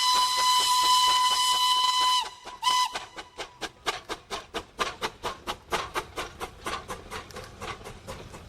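Steam locomotive whistle blowing one long blast that cuts off about two seconds in, followed by a short toot. The locomotive's exhaust chuffs steadily throughout, about four to five beats a second, and is heard alone once the whistle stops.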